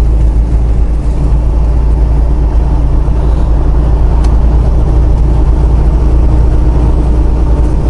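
Steady low drone of a semi-truck's diesel engine and road noise, heard from inside the cab while driving.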